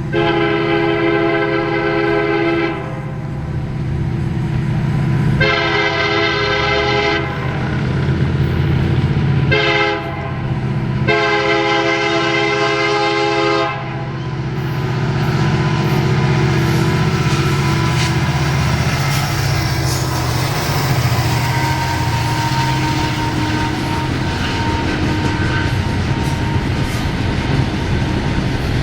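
Diesel train horn sounding the grade-crossing signal: long, long, short, long, ending about 14 seconds in. The train then rolls past with a steady engine rumble and wheels clattering over the rail joints.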